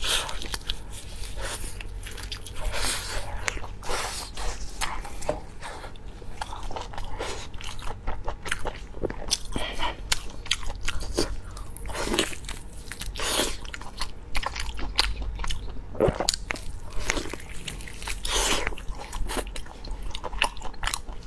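Close-miked chewing and biting of spicy beef rib meat: a continuous run of many short, irregular wet mouth clicks.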